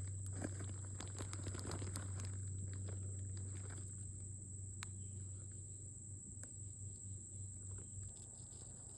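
Insects, such as crickets, trilling at a steady high pitch, over a low steady hum that fades over the seconds, with scattered light clicks and rustles.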